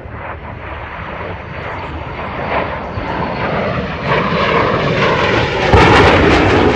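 Jet aircraft passing in flight, its engine noise growing steadily louder as it approaches.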